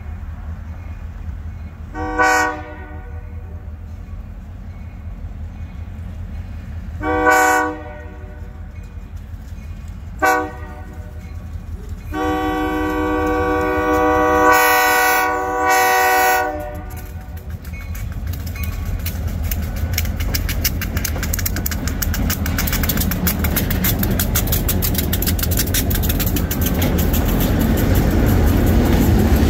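Diesel freight locomotive sounding its multi-chime air horn for a grade crossing: four blasts, the last held about five seconds, the long-long-short-long crossing signal. A steady low engine rumble runs under the horn. After the horn, the engine and a rapid clatter of wheels on rail grow louder as the locomotive and its cars roll past close by.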